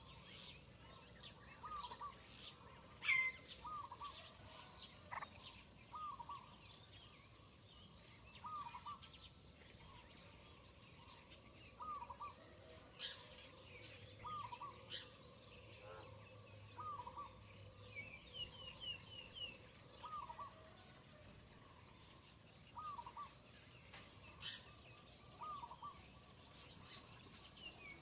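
Birds calling outdoors: one bird repeats a short double note every two to three seconds, with a quick run of higher chirps in the middle and a few sharp clicks.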